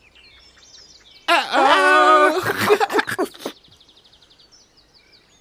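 Soft background birdsong of chirps and a short buzzy trill, broken about a second in by a loud, drawn-out character voice saying "Uh-oh".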